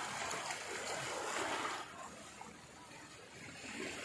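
Steady rushing noise that drops away sharply about two seconds in and builds back up near the end.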